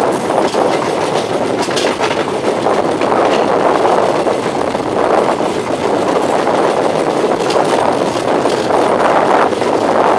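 Passenger express train running along the track, heard from an open coach door: a steady rumble of wheels on rails with a few sharp clicks over the rail joints.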